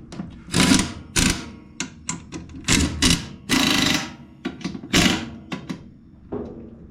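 Irregular clunks and clatter of hard objects being handled and set down, with a short scraping rush a little past halfway.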